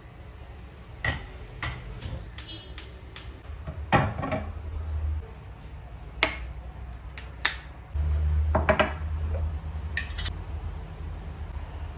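Dishes and cutlery clinking and knocking as they are handled, in about a dozen separate clinks, with a low rumble underneath that grows stronger about two-thirds of the way through.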